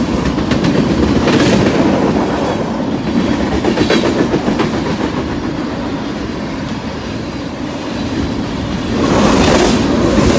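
Freight train of tank cars rolling past close by: a steady rumble of steel wheels with clicks as they cross the rail joints, louder for the last second or so.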